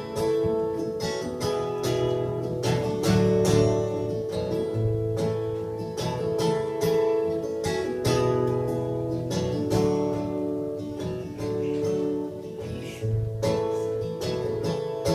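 Acoustic guitar strumming the instrumental introduction to a folk song.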